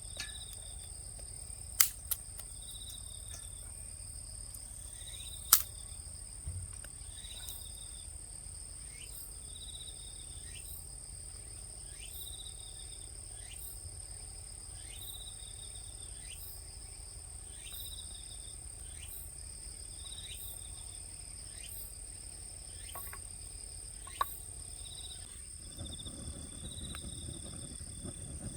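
Insects calling steadily: a constant high-pitched trill, with a short chirp repeating about every one and a half seconds. A few sharp cracks sound now and then, and a low rumble comes in near the end.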